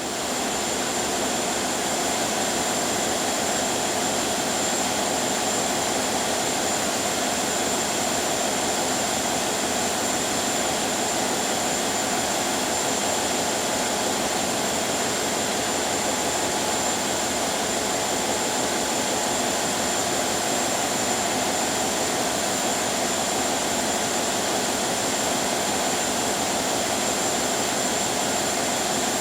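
Ship under way, its engine running steadily: an even, unchanging drone with a constant high whine above it.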